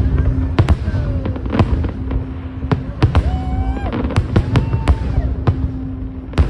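Fireworks shells bursting in quick succession, about two or three sharp bangs a second over a continuous low rumble.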